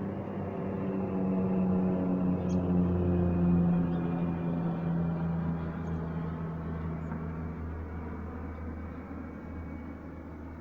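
Low engine drone of a passing vehicle: it swells to its loudest about three to four seconds in, then fades slowly while its pitch drops slightly.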